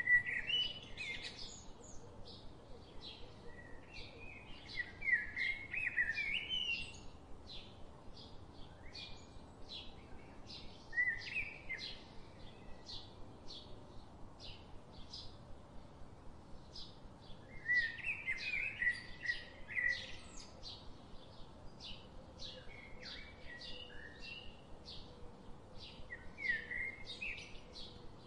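Birds chirping and singing: short bursts of warbling song every few seconds, over a steady run of short high chirps about two a second.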